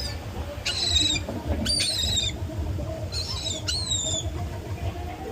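Birds squawking with short, high, downward-sliding calls, four in a row about a second in to four seconds in, over a steady low rumble of wind on the microphone.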